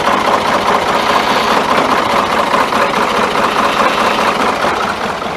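Ford 4500 backhoe's engine running steadily.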